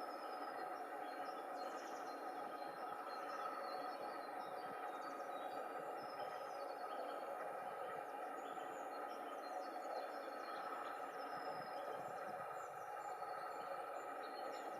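Small birds chirping and calling with many short, high notes over a steady background rush.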